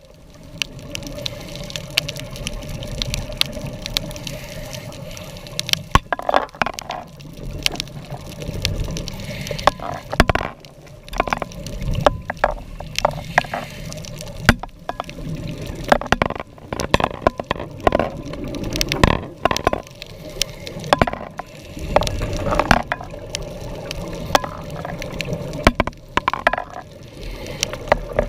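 Underwater sound of scuba diving: gushing bursts of exhaled bubbles every few seconds over a constant water noise, with many sharp clicks and crackles.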